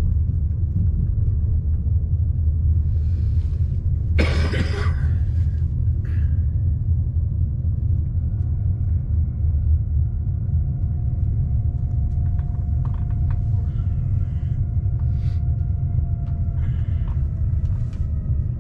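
Steady low rumble of a fast passenger train running, heard from inside the carriage. About four seconds in comes one short loud noise lasting about a second, and from about halfway faint whining tones slowly fall in pitch.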